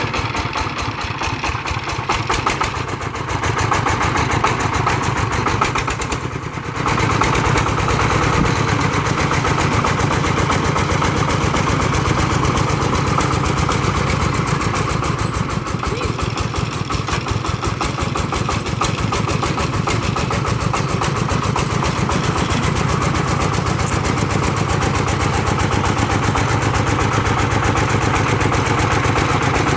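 Single-cylinder diesel engine of a công nông farm truck running with a rapid, even chug. It dips briefly about six seconds in, then runs louder and steady.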